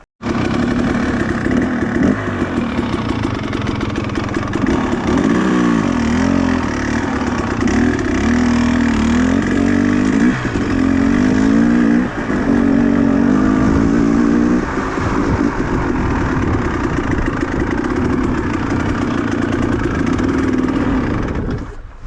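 Small two-stroke engine running hard, its pitch repeatedly rising and falling as it revs and bogs between about five and fifteen seconds in, then holding steadier.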